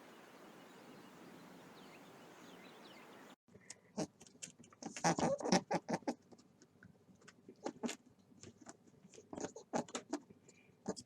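A mouse scratching and rustling: a run of quick, irregular clicks and scrapes that starts about three seconds in, after a faint steady hiss.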